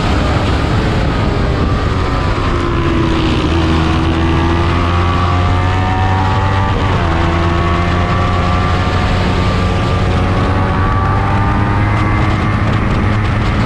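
Small-displacement race motorcycle engine at speed with steady rushing noise. Its pitch falls over the first few seconds, holds low, breaks briefly about seven seconds in, then climbs steadily again.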